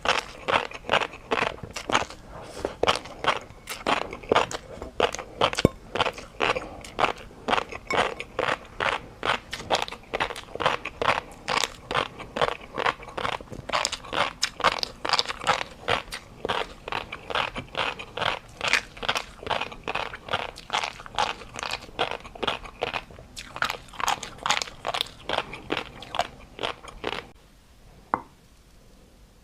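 Close-miked chewing of crisp, crunchy food, a steady run of crunches about three a second that stops near the end, followed by one small click.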